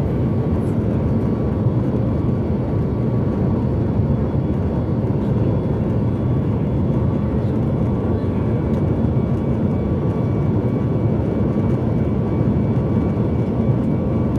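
Steady cabin noise inside a Boeing 737 MAX 8 in flight: an even rush of airflow and engine drone from its CFM LEAP-1B engines, with faint steady whine tones above it.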